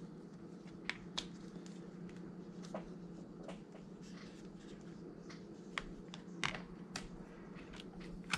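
Scattered small clicks and taps of repair tools and phone parts being handled on a workbench, about eight sharp ticks over several seconds, over a steady low hum.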